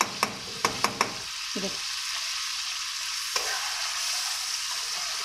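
Chicken and tomato gravy sizzling in a karahi over a gas flame, with a metal spoon clinking against the pan several times in the first second as tomato pieces are crushed. After that, only a steady sizzle.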